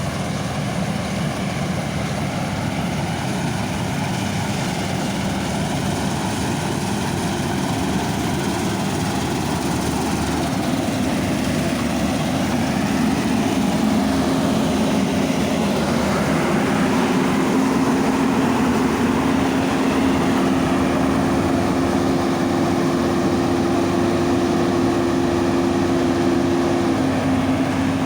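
Large farm machine's diesel engine running steadily. About halfway through it grows louder and a steady whine comes in; one note of the whine stops shortly before the end.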